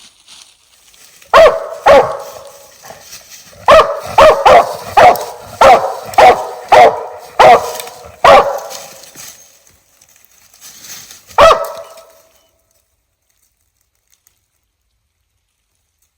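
Treeing Walker coonhound barking: about a dozen loud, sharp barks, two near the start, a quick run of nine or so, then one last bark before it goes quiet.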